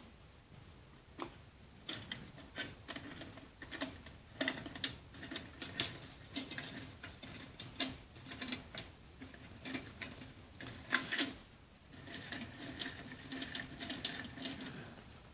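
Faint, irregular clicks and taps of small wire and tin-can parts of a homemade Stirling engine being handled and fitted together by hand.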